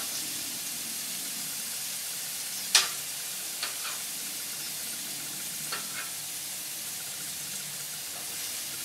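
Cube steaks and onions sizzling steadily on a flat-top griddle, with metal tongs clicking against the hot steel a few times, sharpest about three seconds in.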